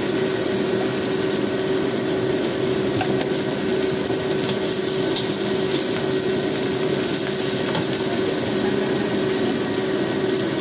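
Tempe and salted fish sizzling as they are stir-fried in a wok, with a metal spatula stirring and scraping now and then, over a steady hum.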